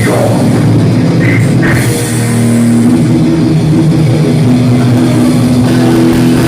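Loud heavy metal played by a band, with distorted electric guitars holding notes over a drum kit.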